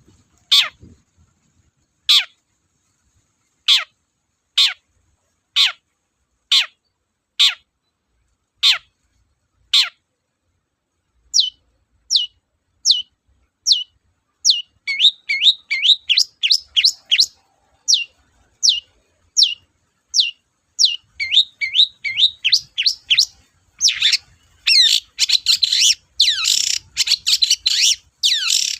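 Long-tailed shrike singing: a series of sharp whistled notes sweeping steeply down, about one a second, then shorter, quicker notes that build into dense, rapid chattering in the last few seconds.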